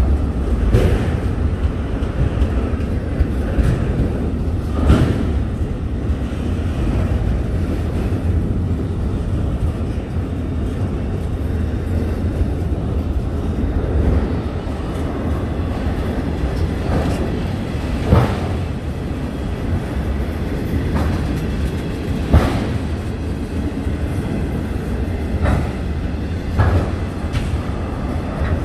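Autorack freight cars rolling slowly past on the rails: a steady rumble of steel wheels on track, with a few sharp, irregularly spaced clanks.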